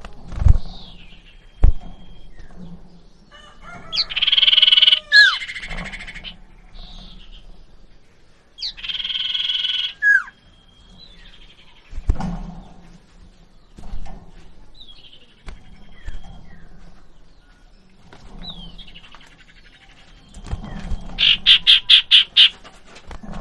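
A small songbird known as cipoh or sirtu (common iora) calling: two loud, harsh chattering calls, scattered short chirps, and near the end a fast run of about eight notes. A couple of sharp knocks come near the start.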